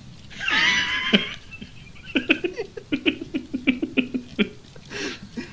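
A person laughing: a high squeal about half a second in, then a run of short rhythmic laughs, about four a second.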